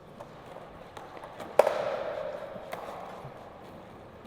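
Skateboard tail popping sharply on flat ground about one and a half seconds in, followed by a rough rolling noise and a lighter knock of the board about a second later: a trick attempt where the rider loses balance at the pop.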